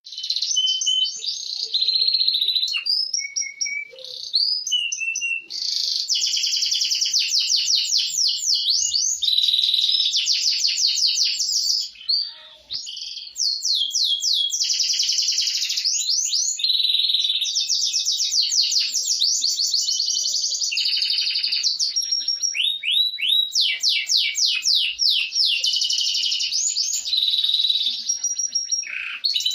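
Domestic canary in full, non-stop song: fast trills and rolls one after another, with a brief break about twelve seconds in.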